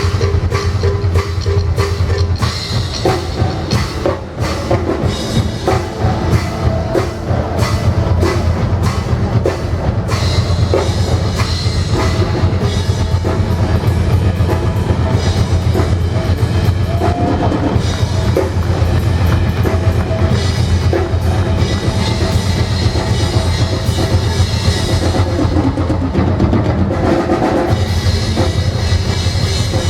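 Live percussion ensemble with a drum kit playing fast, driving rhythms, with dense rapid strokes over a steady deep bass.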